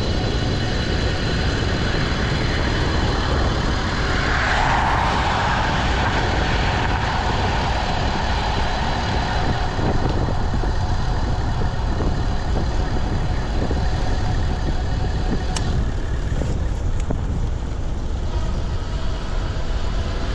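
Riding noise on a moving electric bike: wind rumbling on the microphone, with road traffic and a car passing about four seconds in.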